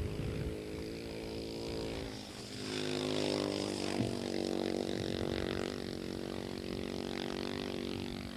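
Husqvarna 610 single-cylinder four-stroke dirt bike engine running. About three seconds in it climbs in pitch and gets louder as the bike accelerates, then holds a steady note.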